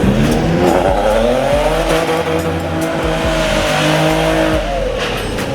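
A car's engine revving up and held at high revs while its tyres squeal in a drift or burnout, the revs dropping away near the end.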